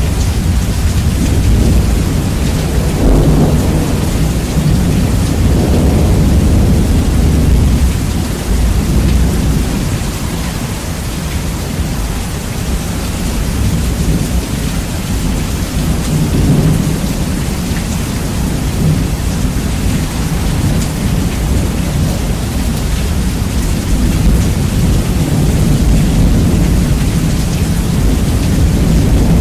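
Heavy rain with rolling thunder, bass-boosted so that deep rumbling dominates; the rumble swells a few seconds in and again about halfway through, over a steady hiss of rain.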